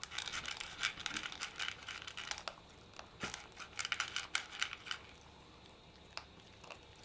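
Chihuahua crunching dry kibble: quick irregular crackling clicks in clusters that thin out over the last couple of seconds.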